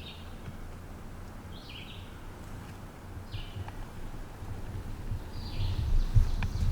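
A songbird repeating a short falling call about every two seconds, four times. Underneath runs a low rumble that grows louder around six seconds in, with one sharp click near the end.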